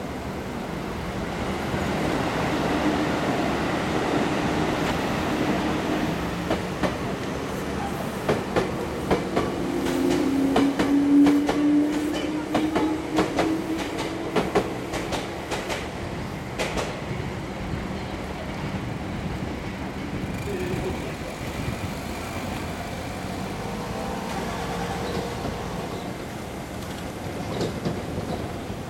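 Meitetsu electric train passing, its wheels clacking over rail joints in a quick run of clicks for several seconds in the middle, over a rolling rumble and a low motor hum.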